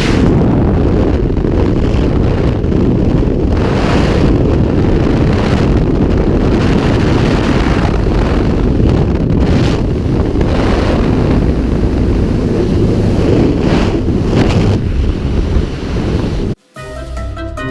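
Loud, steady rush of wind buffeting the microphone during a skydive. Near the end it cuts off abruptly, and music with marimba-like notes begins.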